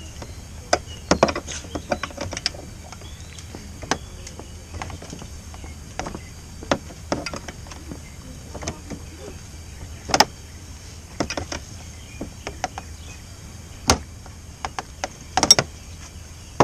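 Oil filter wrench clicking and knocking as it is fitted and turned to tighten a new oil filter about two-thirds of a turn past hand tight. The clicks are scattered and irregular, over a steady low hum.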